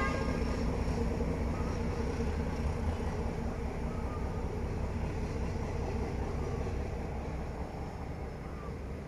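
Low steady rumble of a diesel-hauled freight train moving away, fading slowly.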